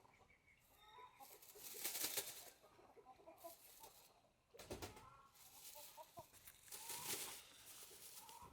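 Chickens clucking softly and repeatedly, with a few louder bursts of rustling or scuffing noise about two, five and seven seconds in.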